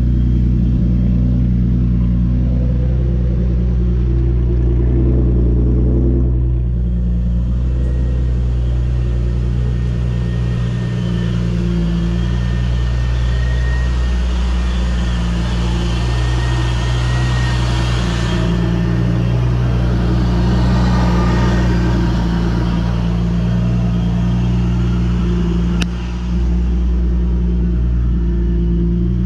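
Vortech-supercharged Infiniti G35 V6 idling after a cold start through Megan Racing headers, ART pipes and a Motordyne exhaust, a steady deep drone. About a quarter of the way in, a hiss and a faint high whine join in for roughly ten seconds, then fade.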